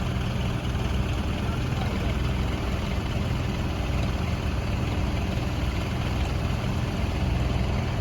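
Diesel tractor engine running at a steady speed, with no revving.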